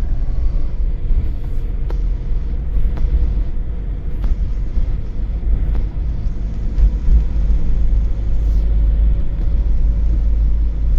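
Car on the move, heard from inside: a steady low road and engine rumble with a few faint knocks.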